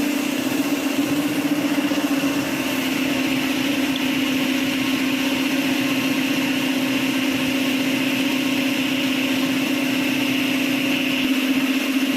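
BMW superbike's engine running at a steady speed, holding one even pitch without revving.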